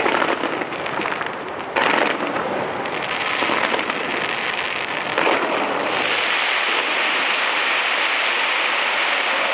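Fireworks display: a dense, continuous crackle of bursting shells, with two sharp loud bangs, one about two seconds in and one about five seconds in. From about six seconds the crackling thickens into a steady fizzing wash.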